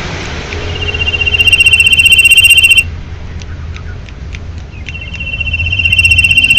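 Common iora singing close by: two long, buzzy trills held on one pitch. Each swells in loudness and then stops abruptly. The first ends about three seconds in, and the second starts about five seconds in. Faint ticks fall in the gap.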